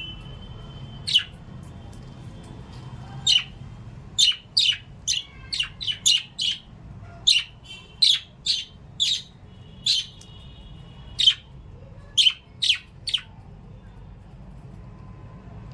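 Small caged pet parrots giving a run of short, sharp, high chirps, many in quick succession, over a low steady hum. The calls stop about two seconds before the end.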